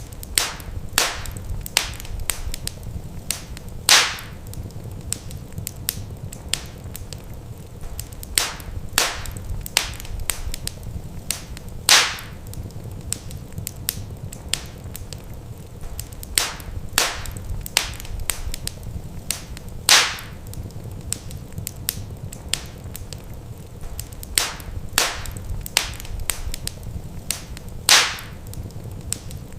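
Wood fire crackling in a fireplace: a steady run of sharp crackles with a louder pop about every eight seconds, over a low steady rumble.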